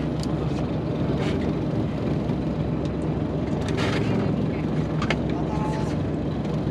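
A boat's engine running steadily at idle, with a few short clicks and knocks over it.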